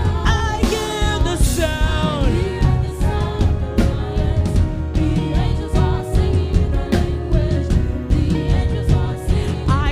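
Gospel worship band playing with a steady drum beat and sustained keyboard-like tones, a singer's voice heard over it in the first two seconds or so and again near the end.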